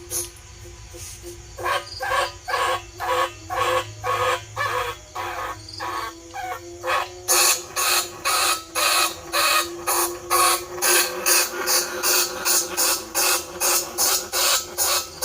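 Bandicoot rat squeaking call used as a trapping lure: short squeaks repeated about two to three times a second, which become louder and shriller about seven seconds in.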